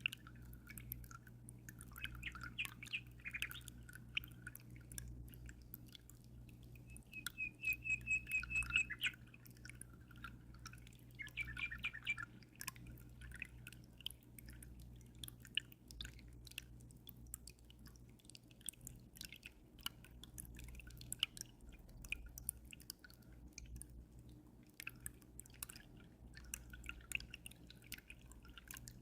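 Aquarium water trickling and dripping in many small splashes, with a bird chirping in short phrases, clearest from about 2 to 12 seconds in, over a low steady hum.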